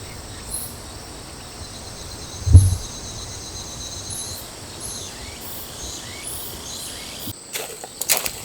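Outdoor ambience of insects trilling steadily in a high pitch, with a few faint high chirps, broken by one loud low thump about two and a half seconds in. Near the end the trilling drops away and short rustling clicks take over.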